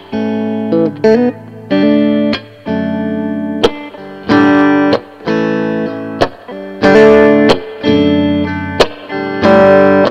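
Electric guitar through a Mesa Boogie Recto-Verb 25 all-tube combo on its clean channel, playing a chord progression. A new chord is struck every half second to second and rings until the next, with a few sharp muted slaps in between.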